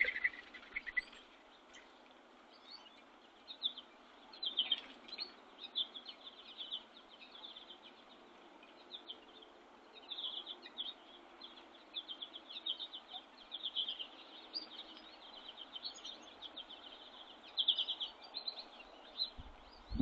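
Small songbirds calling in quick runs of high chirps and twitters, over and over, above a faint steady background hiss.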